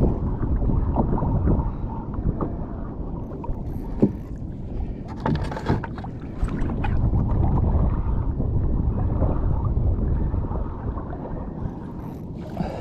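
Water sloshing against a kayak hull, with wind on the microphone and a few sharp knocks about four and five and a half seconds in.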